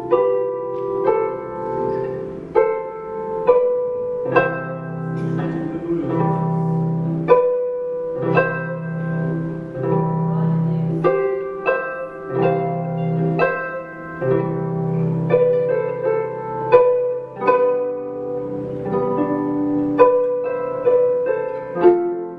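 Harp played solo in a slow, steady melody: plucked notes, each one ringing and fading, over held low notes that change every second or two.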